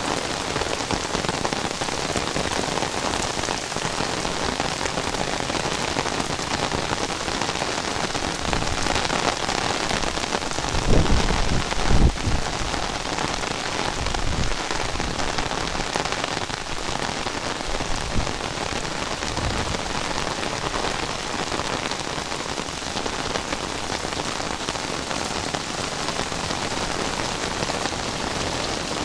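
Heavy rain falling, a steady dense hiss, with a few short deep thumps near the middle.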